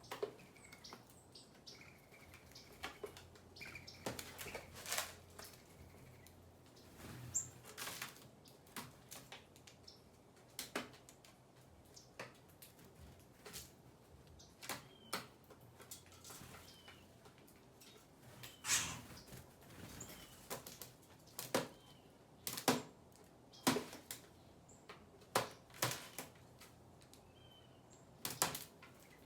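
Small birds feeding: irregular sharp taps and clicks, a few louder than the rest, with a few faint short chirps.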